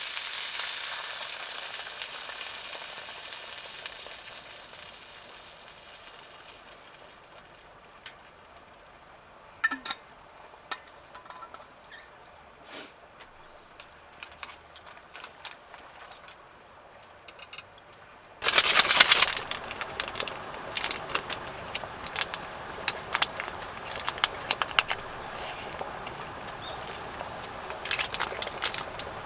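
Food sizzling in a hot pan, the sizzle fading over the first several seconds to a few scattered clicks. About eighteen seconds in, a sudden loud sizzle starts and carries on crackling.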